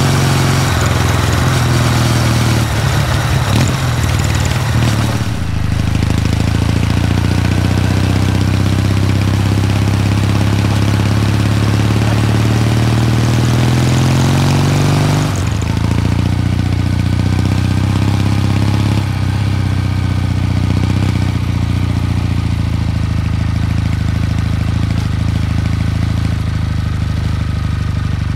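Kawasaki W800 Street's air-cooled parallel-twin engine running while the bike is ridden, with wind rush strongest in the first few seconds. The engine pitch climbs slowly as the bike accelerates, drops abruptly about halfway through, then holds steady.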